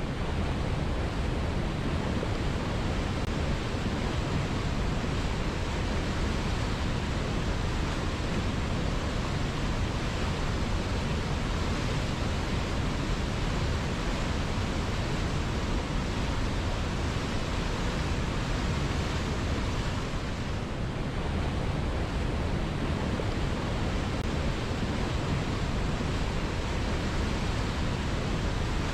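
River water flowing, a steady rushing noise with no breaks.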